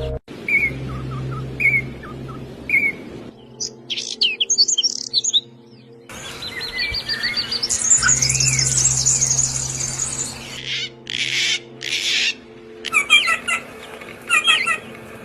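Songbirds chirping and trilling: short repeated chirps, then a fast high trill, then a run of quick two- and three-note chirp phrases near the end, with the sound changing abruptly several times. A low steady drone sits beneath.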